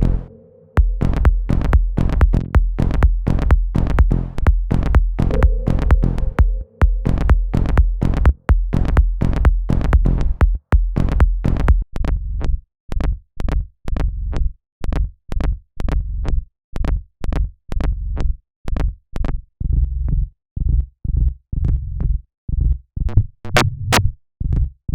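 Electronic dance track being played back while it is produced: a looped beat of sharp clicks over a steady bass. After about twelve seconds it thins to short bass thuds about twice a second.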